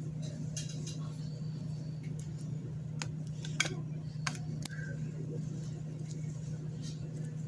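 A steady low hum with a handful of sharp, light clicks and clinks about three to five seconds in.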